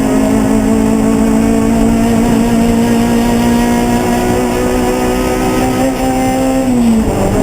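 Racing car engine held at high revs, its pitch easing down slowly, then falling away sharply near the end as the driver lifts off.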